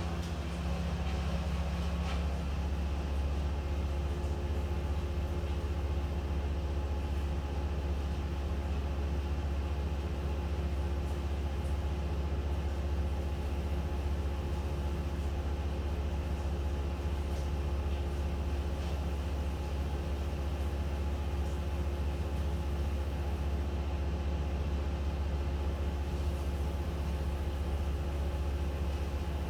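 An engine running at a steady speed: a low, unchanging drone with no revving.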